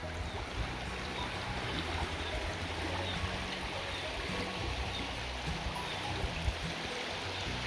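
Steady rushing of running water from a stream, with soft background music underneath.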